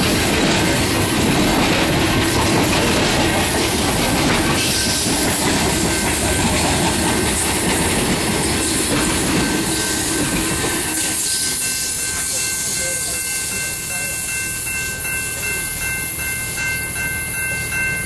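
Freight train cars rolling past with wheels clacking over the rails. About eleven seconds in the rolling noise thins out and a few steady high-pitched tones are left.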